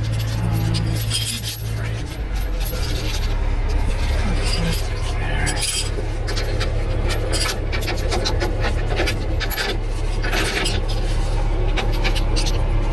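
A heavy truck engine idling steadily, its note shifting about two seconds in, with repeated metallic clinks, rattles and scraping over it from rigging being handled.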